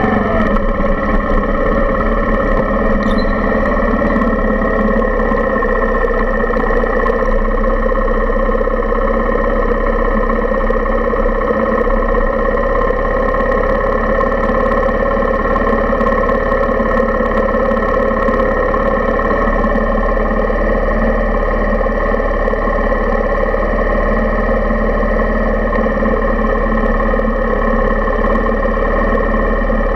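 Suzuki Intruder 125's small single-cylinder four-stroke engine running steadily at low revs, near idle, while the bike creeps along in slow traffic. Picked up close through a camera clamped to the handlebar.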